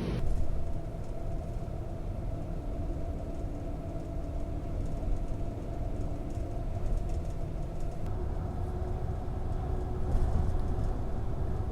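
Japanese train running, heard from inside a carriage: a steady low rumble with an even electric motor hum over it.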